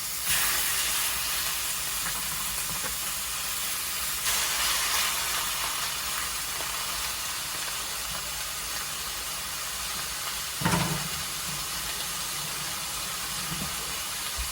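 Chicken thighs frying skin side down in a hot pan with no added oil, the rendering fat giving a steady sizzle that flares louder twice, near the start and about four seconds in. A brief thud comes about three quarters of the way through.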